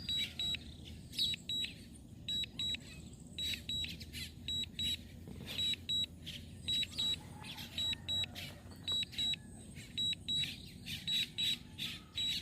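Warning beeps from the DJI Mini 3 Pro's controller and flight app: short high double beeps about once a second, alerting that the drone is in trouble at its maximum flight distance.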